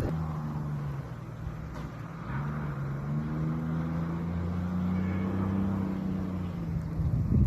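A car engine running, revving up about two seconds in and holding at a raised pitch, then easing off near the end, with gusts of wind on the microphone.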